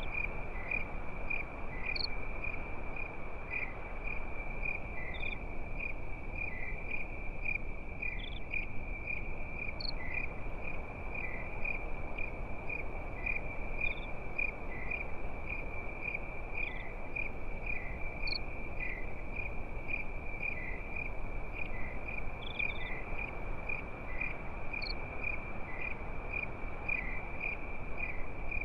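Crickets chirping at night in a steady, continuous pulsing trill, with a short higher chirp every few seconds, over the low, even hiss of a campfire.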